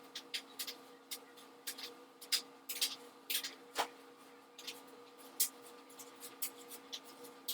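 Hair rustling and scratching in short, irregular strokes as fingers unravel twists in short, coily natural hair, over a faint steady hum.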